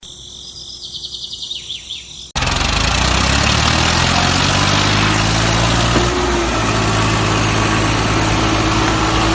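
High-pitched rapid chirping, then about two seconds in an engine cuts in abruptly and runs steadily and loudly, with a low hum and a faint tone that rises slightly midway.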